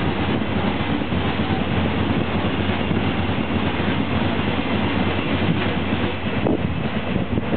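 Freight train of Hoki hopper wagons rolling past at speed, with steady wheel-on-rail noise and some clickety-clack. The noise turns choppier near the end.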